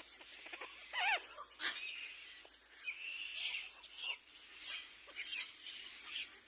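Nestling birds squealing in a string of short, shrill, high-pitched squeaks, some sliding up and down, about one or two a second.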